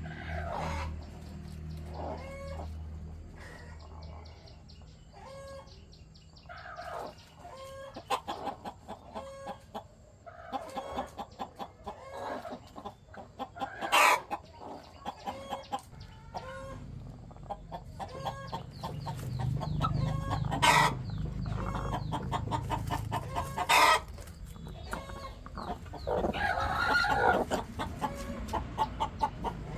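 Chickens clucking in short repeated calls, with three short, loud sharp sounds in the middle and a longer call near the end.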